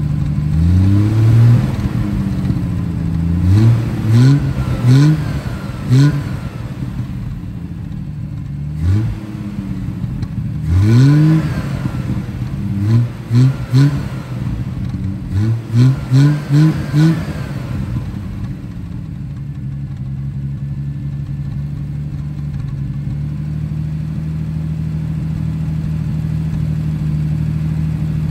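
Triumph TR6's straight-six engine running, revved in a string of short blips that rise and fall in pitch, then settling into a steady idle for about the last ten seconds.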